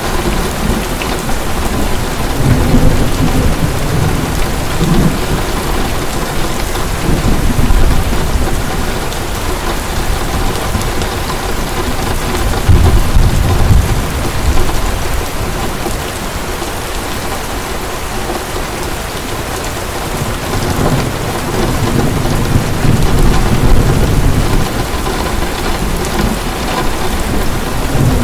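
Heavy rain falling steadily, with thunder rumbling low and long several times, in swells that last a few seconds each.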